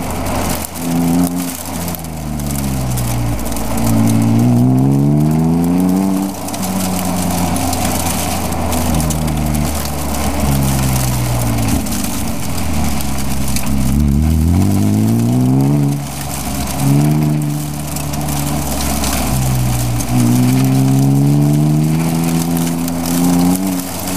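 BMW E36 M3's straight-six engine heard from inside the cabin, driven hard: its pitch climbs steeply under full throttle several times, about four seconds in, around twelve to sixteen seconds and again near twenty seconds, then drops back as the driver shifts or lifts off.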